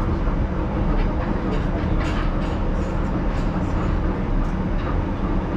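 1938 Tube Stock train running, heard from aboard the carriage: a steady low rumble of wheels and traction motors, with scattered light clicks from the track.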